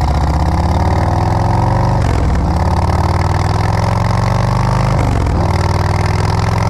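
Motorcycle engine running under load, with two brief dips in pitch about two and five seconds in.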